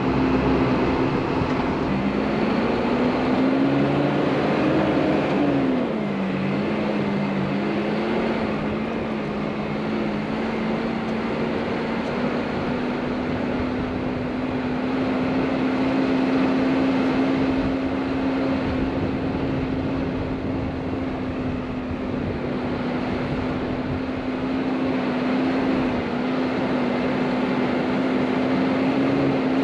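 Isuzu NPS 4x4 truck's diesel engine running as the truck drives, revving up and back down a few seconds in and then holding a steady note.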